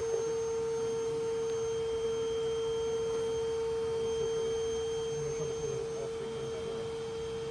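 A steady, high-pitched hum held on one unchanging tone, with faint low rustling beneath it.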